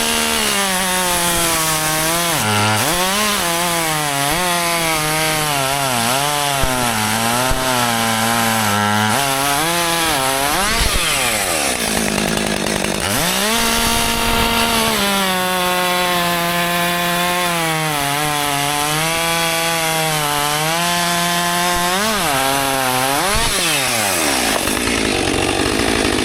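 Husqvarna two-stroke chainsaw running at full throttle through wood, its engine pitch dipping and recovering as it works in the cut. About halfway it briefly revs up and down, then goes back to a steadier run under load.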